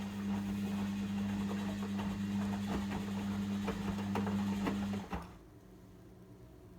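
Logik washing machine's drain pump running with a steady hum and some rattling, then cutting out suddenly about five seconds in.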